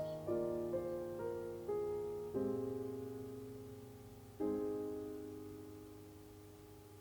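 Slow, gentle solo piano background music: sustained chords struck a few seconds apart, each left to fade.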